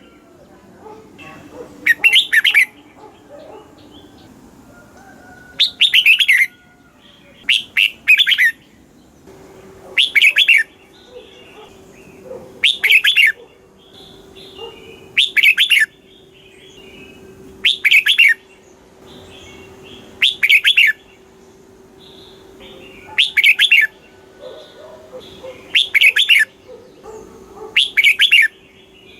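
Red-whiskered bulbul singing, repeating a short, bright song phrase about every two and a half seconds. A faint steady hum comes in about nine seconds in.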